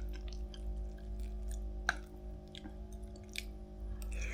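A person chewing food, with scattered small wet clicks from the mouth, over a steady low hum.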